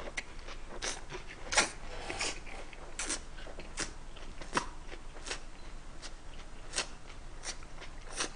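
A person chewing a mouthful of a Korean lettuce-leaf wrap with beef bulgogi close to the microphone: short, wet clicking mouth sounds about every three quarters of a second.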